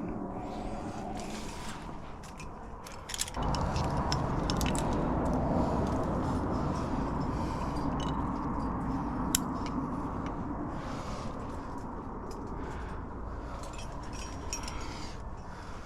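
Metal climbing gear clinking and scraping against rock in scattered sharp clicks, over a steady low rumble that grows suddenly louder about three seconds in.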